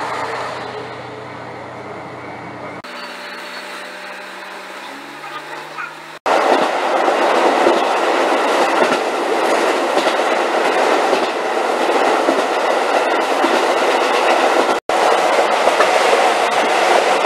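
Diesel railcar: first its engine running steadily, then, about six seconds in, the loud rumble and clatter of its wheels on the rails, heard from aboard the moving train.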